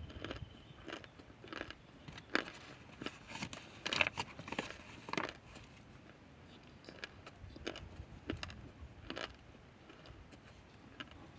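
Crunching and chewing of cornstarch chunks: a run of irregular sharp crunches, thickest in the first half and thinning out later.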